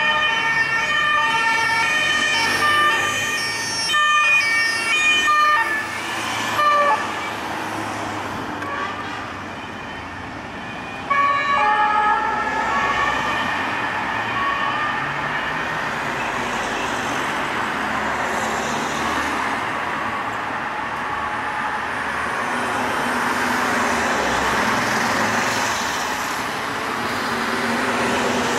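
French police two-tone sirens of a passing motorcade, two alternating notes sounding loudly for the first six seconds or so and again briefly about eleven seconds in. After that comes a steady rush of traffic and engines.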